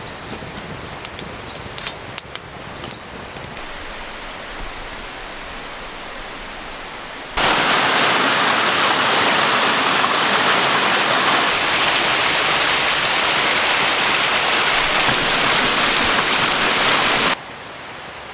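Light clicks and taps, then a loud, steady rush of running water that starts suddenly about seven seconds in and cuts off suddenly some ten seconds later.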